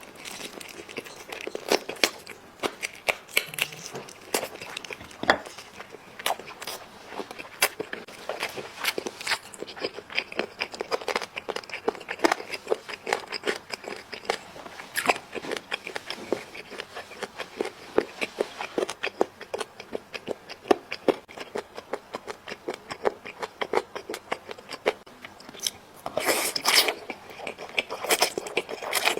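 Close-miked eating: chewing and biting into spicy braised chicken, a steady run of small wet clicks, crunches and tearing of the meat, busier and louder for a couple of seconds near the end.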